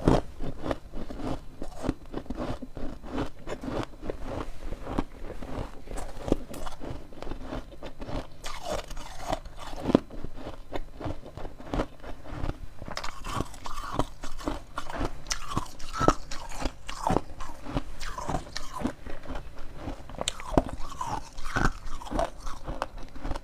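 Dense freezer frost being bitten and chewed, a quick run of sharp crunches several times a second.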